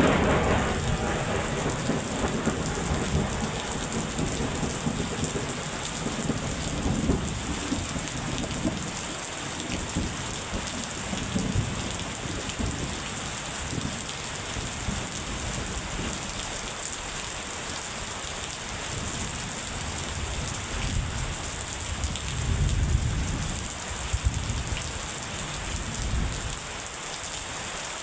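Steady rain falling. A thunder roll dies away over the first couple of seconds, and a low roll of thunder swells again about 23 seconds in.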